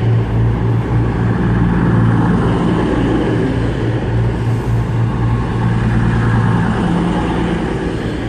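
Class 221 Super Voyager diesel-electric unit idling at the platform: its underfloor Cummins diesel engines give a steady low hum.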